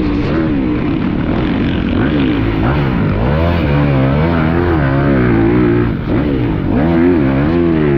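Yamaha YZ450F four-stroke single-cylinder motocross engine under load on a track, its pitch repeatedly rising and falling as the throttle is opened and closed through corners and straights.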